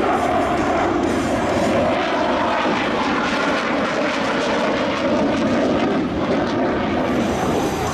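Aircraft engine noise, a loud, steady rush without a clear change in pitch.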